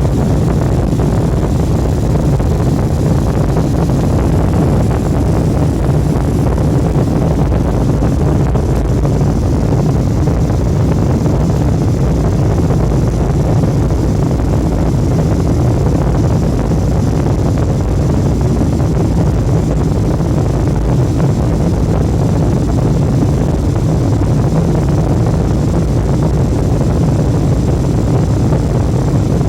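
Jet airliner heard from inside the cabin during takeoff: a steady, loud rumble of engines and airflow, with a faint high whine above it.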